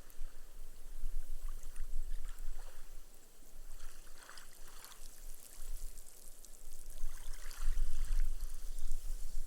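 Small, gentle waves washing up a sand beach, the water soaking into the sand with a fine crackling fizz of bursting foam. A fresh wash arrives with a low surge about three-quarters of the way through.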